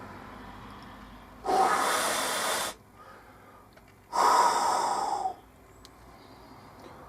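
Two long, loud breaths close to the microphone, each about a second long and a couple of seconds apart.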